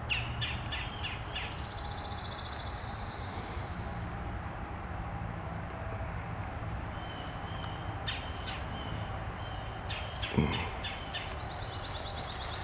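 Wild birds chirping and calling in woodland, with a buzzy high trill lasting about two seconds starting about a second in and scattered short chirps later, over a steady low background hum.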